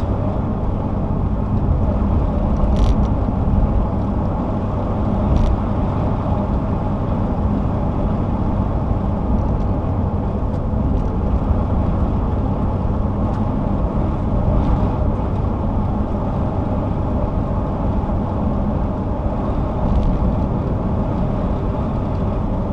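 Steady tyre and engine noise of a car driving along a highway, heard from inside the cabin, with a low even hum. A couple of faint clicks come a few seconds in.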